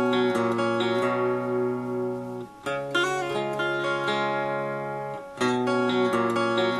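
1969 Gibson L5 archtop guitar strummed in held chords, a new chord struck about three seconds in and again about five and a half seconds in, each left to ring.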